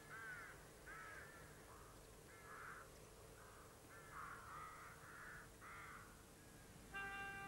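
A faint series of harsh, caw-like bird calls, about eight in a row, each about half a second long. Violin music comes in near the end.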